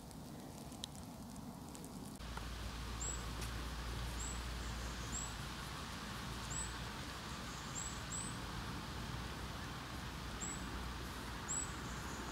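Outdoor dusk ambience: a steady background hiss with a low rumble, and a small bird giving short, high chirps about eight times at irregular intervals.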